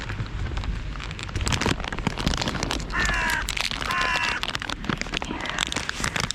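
A crow cawing: two loud caws about a second apart and a fainter third one after, over a steady patter of rain.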